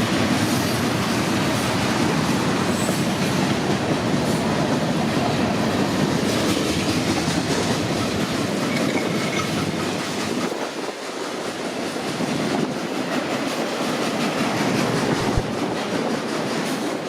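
Freight train cars rolling past: a steady rush of steel wheels on rail with faint repeated clicking over the rail joints. The deep rumble drops away about ten seconds in.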